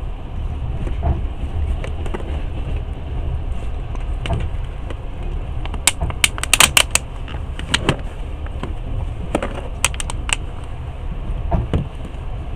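Passenger train running, heard from inside a carriage: a steady low rumble, with sharp clicks and rattles clustered about six seconds in and again around ten seconds.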